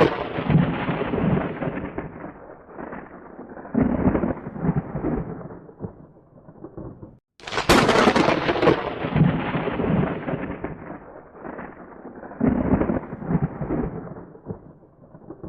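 Thunder: a close crack dying into a rolling rumble that swells again and fades over several seconds. The sound cuts off abruptly about seven seconds in, then a second sharp thunderclap follows and rolls away the same way.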